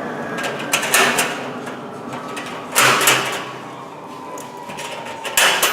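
Industrial trim extractor vacuum running and winding down, its whine falling steadily in pitch, with three short bursts of rushing noise about a second, three seconds and five and a half seconds in.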